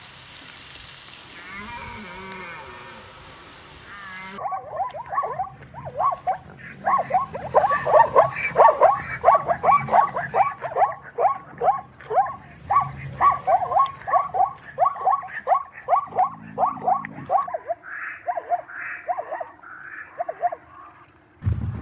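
An animal calling in a rapid series of short, repeated calls, about two or three a second, after a few seconds of faint hiss; the calls thin out and stop near the end.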